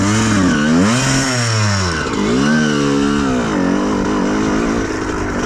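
Honda CR125R's two-stroke single-cylinder engine revving, its pitch rising and falling twice, then running steadier at a lower pitch for the last couple of seconds.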